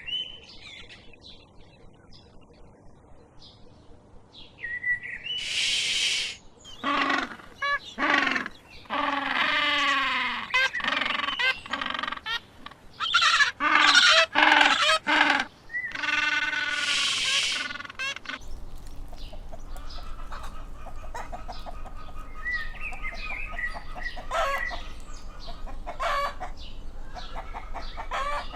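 Chickens calling: a run of loud calls, many falling in pitch, from about five seconds in. After a cut, quieter clucking and chirping continue over a steady low hum.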